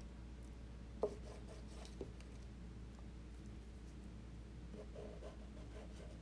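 Faint rubbing and scratching of paint being worked onto oil paper, with a light tap about a second in and a softer one a second later.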